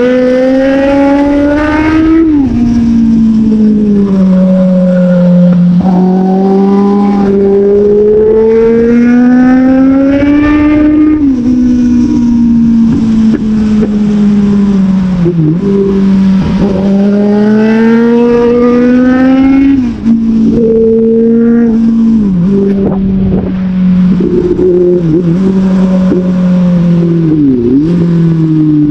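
Sport motorcycle engine accelerating hard through the gears. Its pitch climbs and then drops sharply at each upshift, several times over. In the second half come a few short dips and quick rises in pitch, like throttle blips on downshifts.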